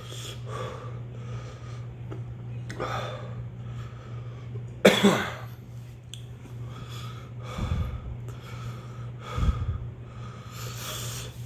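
A man breathing hard in and out through his mouth against the burn of a ghost pepper he has just eaten, with one sharp, loud breath about five seconds in. Two low thumps come later on.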